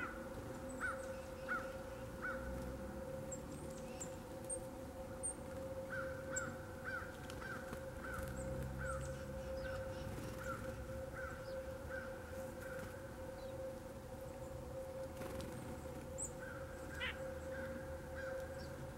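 An outdoor bird calling in long runs of short, repeated notes, about two a second, with a few faint high chips from other birds and a steady low hum underneath.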